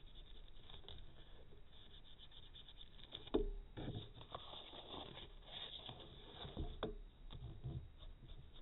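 Faint rubbing and scraping of paint being worked into the edge of a paper page. There is a sharp tap a little over three seconds in and a lighter one near seven seconds.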